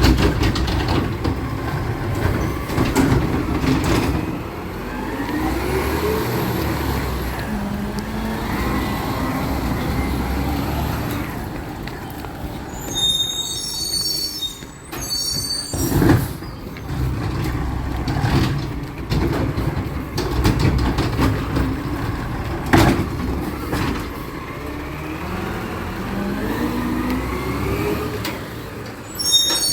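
Recycling truck's diesel engine running, its pitch rising and falling as it revs. A high squeal comes about halfway through and again at the end, and a couple of sharp bangs are heard along the way.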